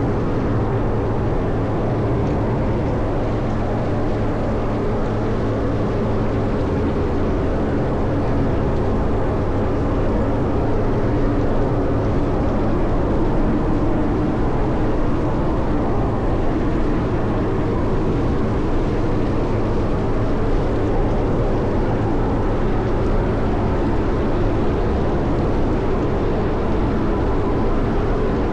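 Caterpillar 140M motor grader's diesel engine running steadily while plowing snow. Its low note shifts slightly about six seconds in.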